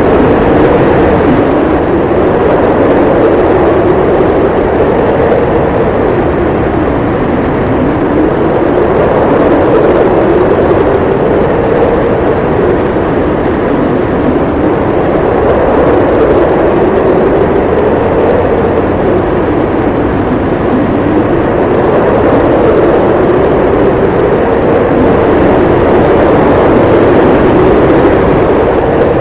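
Howling wind in a snowstorm: a steady, loud rush with a moaning pitch that slowly rises and falls every few seconds.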